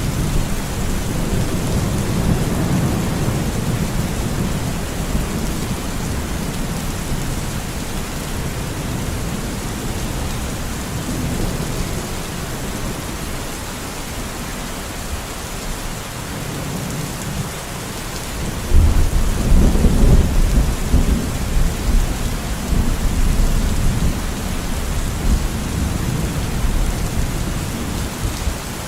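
Steady rain with rolling thunder: a rumble through the first few seconds and a louder one breaking about two-thirds of the way through, lasting several seconds.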